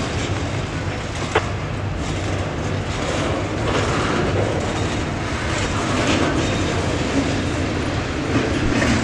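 Double-stack intermodal freight train rolling past: a steady rumble of steel wheels on rail, with a few sharp clicks as the wheels cross rail joints, one of them about a second and a half in.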